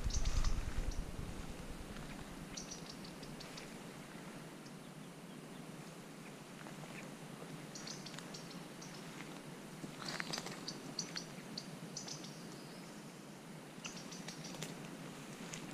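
Small birds chirping in short clusters of quick high notes, coming and going every few seconds. A low rumble of movement on the microphone fades out in the first second or two.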